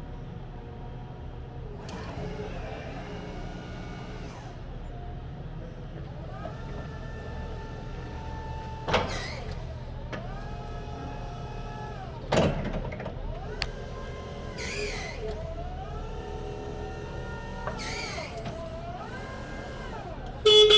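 Crown RR5225-35 electric reach truck's electric motors whining as its functions are worked: the whine rises, holds and winds down again several times, over a steady low hum. A couple of sharp clunks come in the middle, and a short, loud tone sounds near the end.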